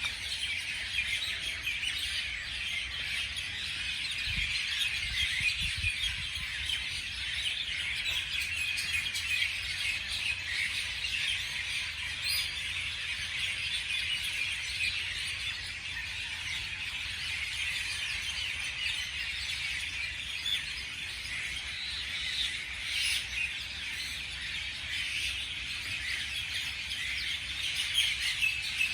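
Many small birds chirping and calling together in a dense, continuous chorus, with no single song standing out.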